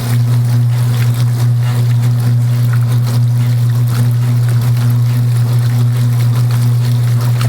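Kenmore belt-drive portable washing machine running mid-cycle: a loud, steady low hum from the motor and cabinet, with water trickling and sloshing in the tub.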